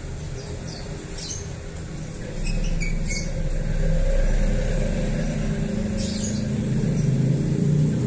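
A few short, high chirps from white-rumped shamas (murai batu), scattered and sweeping downward, over a low rumble that grows louder about two and a half seconds in.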